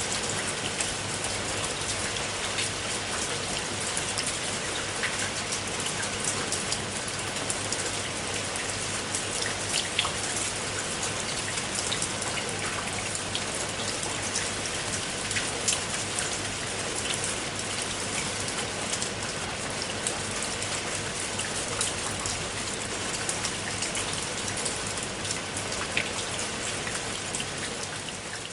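Steady rain falling, a continuous hiss with many separate drop hits ticking through it.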